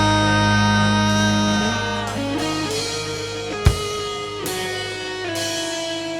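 Live rock band playing an instrumental passage: a held electric guitar chord over bass, then the guitar moves through single notes, with one sharp drum hit about halfway through.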